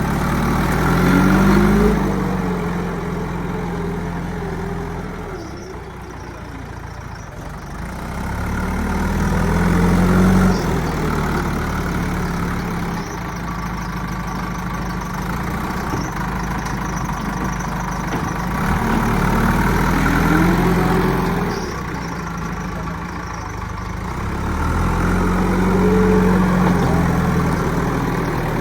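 Large diesel engine of heavy farm or earthmoving machinery, running at idle and revving up and back down four times, as when working under load.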